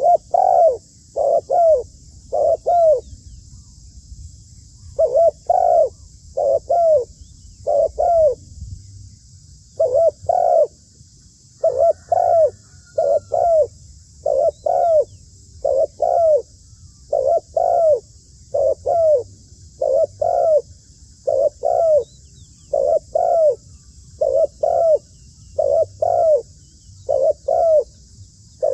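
Zebra dove cooing: a long run of short, rounded coos, mostly in quick pairs and threes, repeated steadily with brief gaps.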